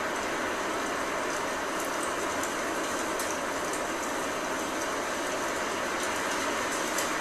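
Blizzard wind with rain: a steady, dense, even rush of noise, with faint scattered ticks now and then.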